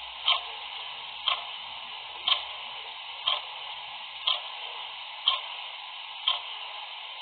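Clock ticking steadily, one tick a second, seven ticks in all, over a constant background hiss.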